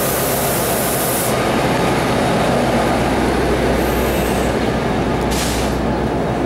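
NJ Transit commuter train arriving and rolling past close by: a steady, loud rumble of the locomotive and cars, with a low drone underneath. A short burst of hissing comes at the start and again about five seconds in.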